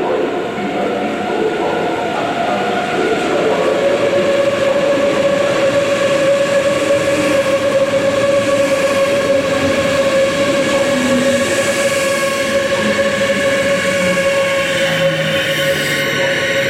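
A train running steadily, with a steady high tone that sets in about three seconds in.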